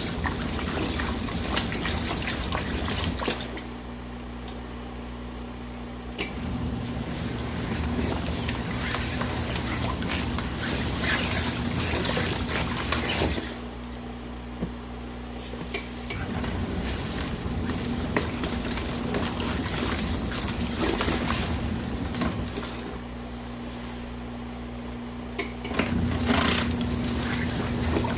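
RV washing machine agitating a load of jackets in hot water at a high water level: motor hum with water sloshing, which stops for about three seconds three times and then starts again, the usual run-pause-run rhythm of a wash cycle.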